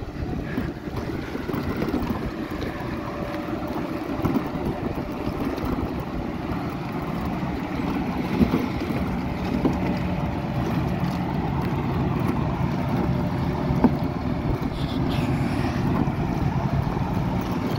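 Steady drone of heavy equipment diesel engines, excavators running at a distance, with wind buffeting the microphone and a few faint knocks.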